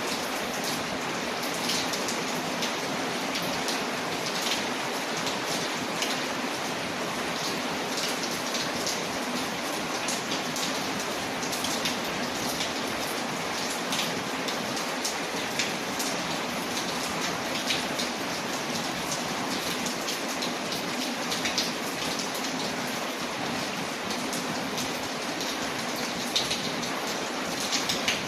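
Steady rain on a window, an even hiss with frequent short sharp ticks, layered with the crackling of a wood fire.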